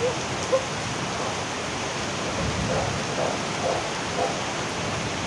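Steady rain falling, an even hiss, with a couple of sharper taps in the first second.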